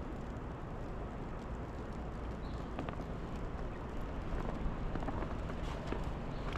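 Steady outdoor hiss and low rumble of a snowy city street, with a few faint crunching footsteps in snow later on.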